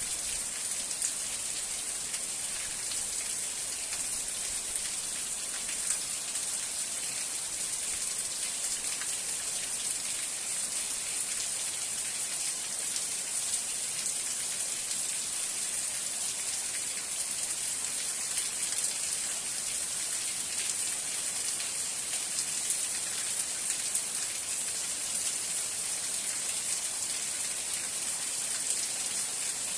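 Steady rainfall, a dense even hiss of many drops with small individual drop ticks scattered through it.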